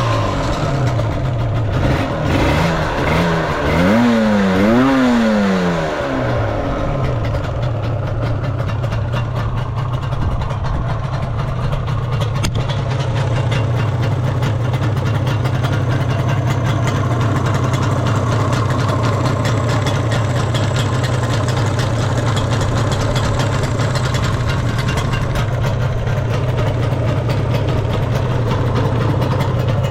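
Yamaha RZ250R two-stroke parallel-twin engine breathing through aftermarket expansion chambers. It is revved a few times in the first six seconds or so, then settles to a steady idle. It runs without any abnormal noise.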